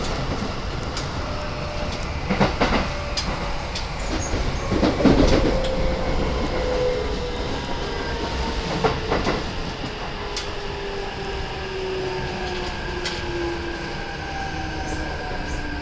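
Keikyu 1000-series electric train running, heard from inside a passenger car: the motor whine falls slowly and steadily in pitch as the train slows, over a steady rumble. The wheels clack over rail joints a few times, loudest about five seconds in.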